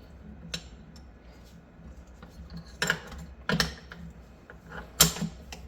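SKS rifle parts being fitted together by hand during reassembly: four sharp metal clicks and clacks at uneven intervals, the loudest about five seconds in.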